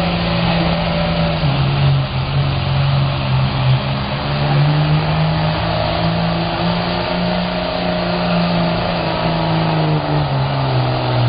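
4x4 pulling truck's engine held at high revs under load as it drags the weight sled, its pitch wavering up and down and falling off at the very end.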